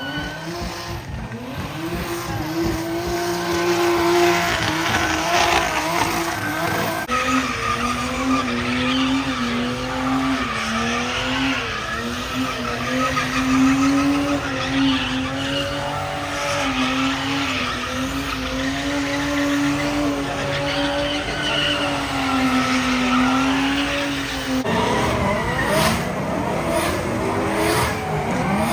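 Car engine held at high revs with tires squealing, as in a burnout, its pitch wavering and dropping a step about a quarter of the way through before it changes near the end.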